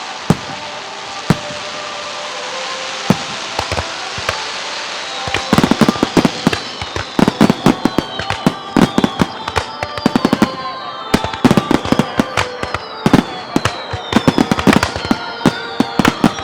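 Aerial fireworks: a few single bangs over a steady hiss, then from about five seconds in a dense run of rapid crackling bangs, several a second, with high whistling tones that fall in pitch.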